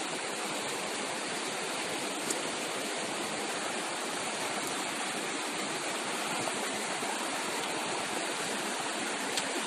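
Steady rushing of running water, with two faint ticks, one about two seconds in and one near the end.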